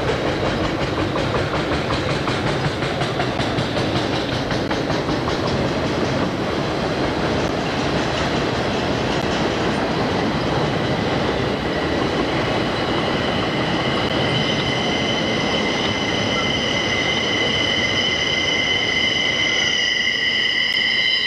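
Conrail intermodal freight train's container and trailer flatcars rolling past steadily, a rumble and clatter of steel wheels on rail. About two-thirds of the way in, a shrill wheel squeal with several high tones sets in and grows louder.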